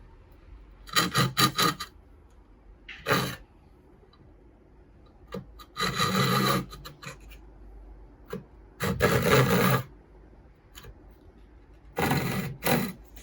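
Short, irregular bursts of a tool scraping and rasping against wood, about five strokes or groups of strokes a few seconds apart, with small knocks between them.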